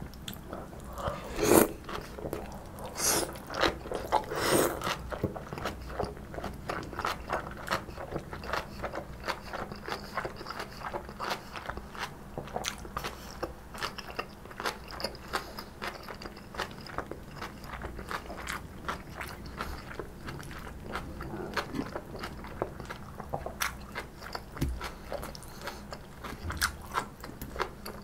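Close-miked eating of tofu with stir-fried kimchi: a few loud crunching bites in the first five seconds, then steady, rapid crunchy chewing of the crisp kimchi.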